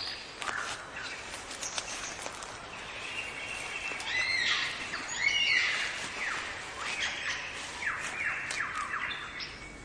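Birds singing: a busy mix of whistles and chirps, with a run of quick falling whistles near the end.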